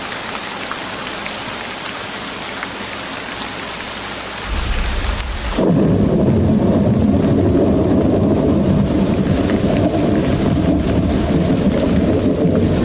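Recorded rain ambience: a steady rain hiss, then a low rumble comes in about a third of the way through. Soon after, the sound switches abruptly to a deep, muffled rumbling with much less hiss, which carries on to the end.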